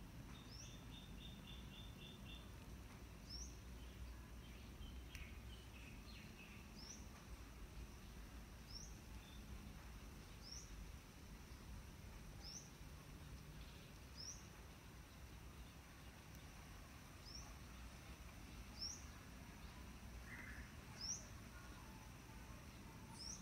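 Faint outdoor quiet with a bird repeating a short, high rising chirp about every two seconds. A quick run of about seven notes comes near the start, with a few other faint bird calls.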